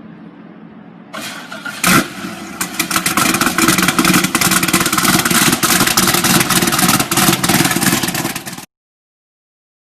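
A cammed LS V8 engine starts with a loud burst about two seconds in, then runs with a rough, rapidly pulsing sound. The sound cuts off abruptly shortly before the end.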